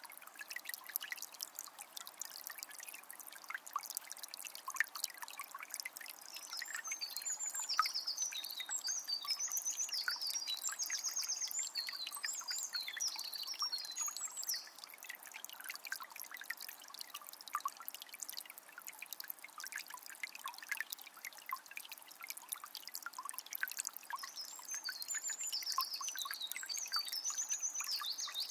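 A calm forest river flowing, a steady trickle with many small splashes. A songbird sings a long run of quick high notes from about six seconds in, and again near the end.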